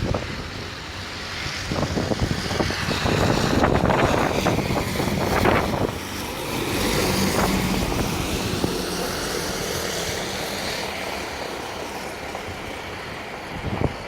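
A motor vehicle passing, its engine swelling and fading, mixed with gusts of wind buffeting the microphone that are strongest in the first half.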